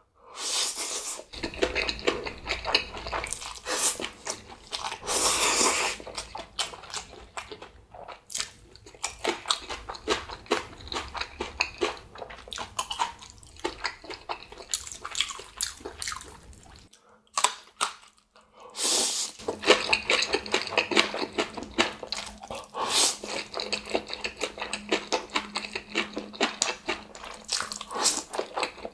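Close-miked eating sounds: chewing and biting into Chapagetti black bean instant noodles and spicy green onion kimchi, wet and crunchy, with a brief pause about seventeen seconds in.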